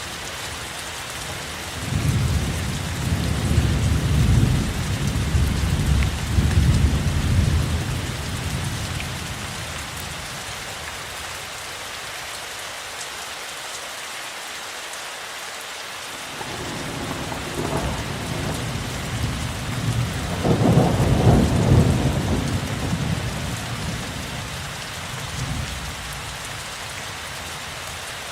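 Steady rain falling, with two long rolls of thunder: one rumbling in about two seconds in and fading out over several seconds, and a second building up past the middle and peaking before it dies away near the end.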